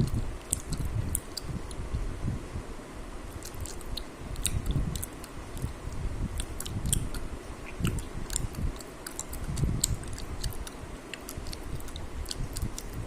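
A person chewing food close to the microphone, with many small sharp mouth clicks and a low rumble underneath.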